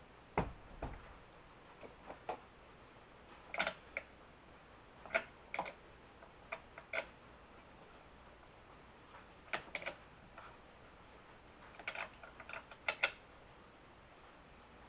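Scattered light clicks and taps of hand tools and chainsaw parts being handled, at irregular intervals, some in quick pairs. Two duller knocks come in the first second.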